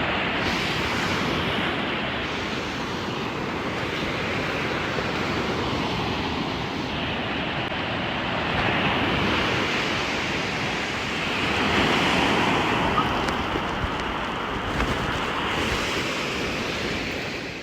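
Ocean surf washing onto the beach, swelling louder and easing in waves, with wind buffeting the microphone.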